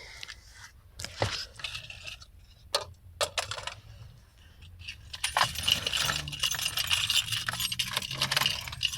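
Light metallic clicks and jingling, sparse at first, then a dense, louder jingle from about five seconds in.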